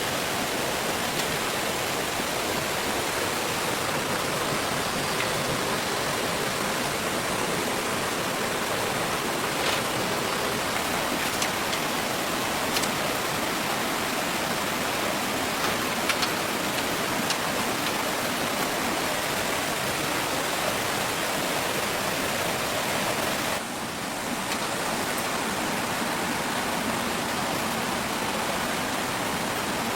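Steady rushing water noise with a few faint ticks; it dips briefly about three quarters of the way through.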